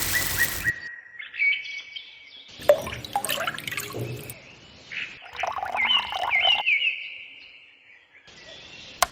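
Birds chirping, in short stretches that start and stop abruptly, with a few bursts of noise in between.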